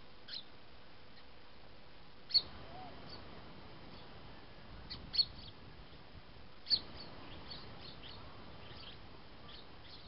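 Small birds chirping: a few loud, short, high calls a couple of seconds apart, then a quicker run of fainter chirps near the end.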